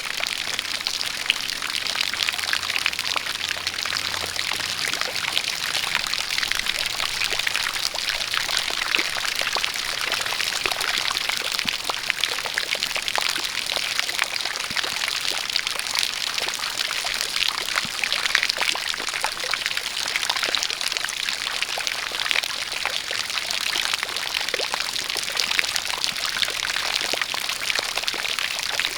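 A jet of water pouring and splashing steadily, with rain falling; a dense, even patter of fine drop ticks over a constant rush.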